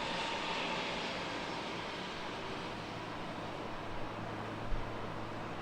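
Airliner jet engines heard at a distance: a steady rush with a faint high whine, slowly fading. A small low bump comes near the end.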